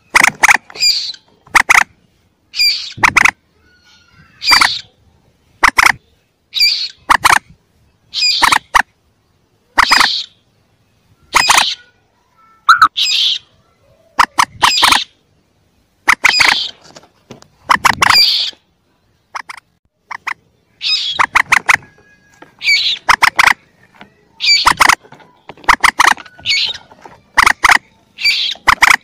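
Lure recording of young common moorhen (mandar) calls: short, sharp, high chirps repeated about once a second, many in quick doubles or triples.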